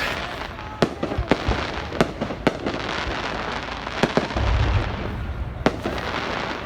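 Fireworks going off: sharp bangs at irregular intervals, several in the first few seconds, over a continuous crackling haze, with a deeper rumbling boom about four and a half seconds in.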